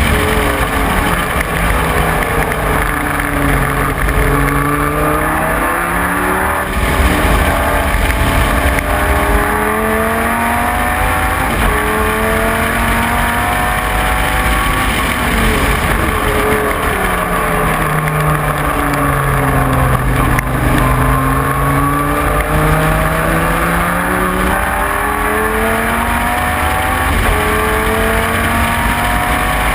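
Dodge Viper GT3's V10 engine at racing speed, its pitch sweeping up and down as it changes gear. Its revs drop low twice, about a quarter of the way in and again past the middle, then climb again.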